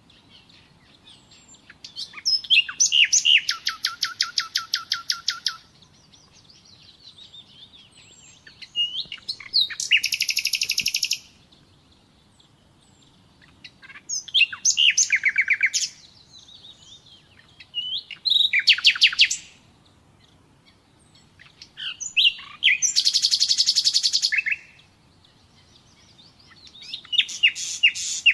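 Common nightingale singing: about six separate phrases a few seconds apart, each a fast run of repeated high notes, some opening with short whistles.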